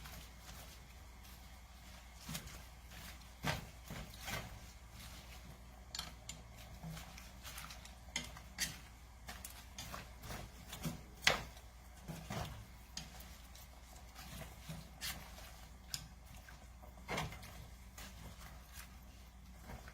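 Scattered clicks and light knocks of cookware and utensils being handled at the stove, spaced irregularly over a faint steady low hum.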